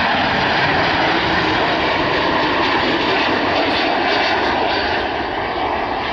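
Boeing 737-800 airliner's CFM56 jet engines, a loud, steady jet noise as the plane comes in to land, easing slightly near the end.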